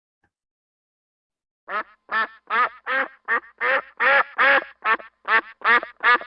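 Duck quacking in a quick, even series of about a dozen short quacks, roughly two or three a second, starting a little under two seconds in.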